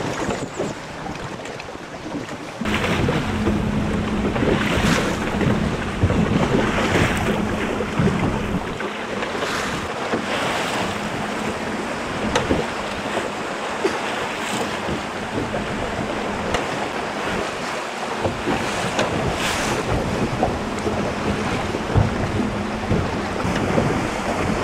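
Sea waves surging and washing against the rocks where the river meets the sea, a swell every two or three seconds, with wind buffeting the microphone. A low steady hum comes in about three seconds in, fades out partway through and returns faintly near the end.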